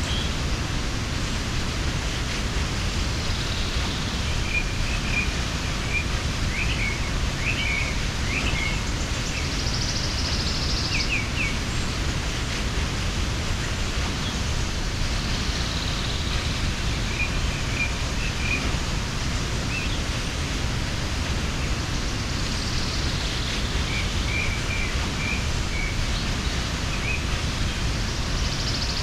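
Mountain waterfall rushing steadily, with small birds chirping briefly now and then and a short higher trill about ten seconds in.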